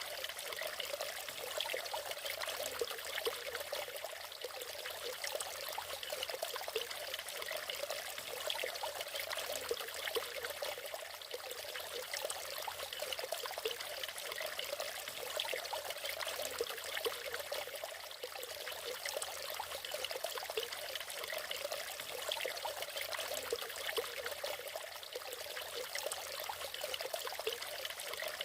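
Natural waterfall: water falling and running steadily.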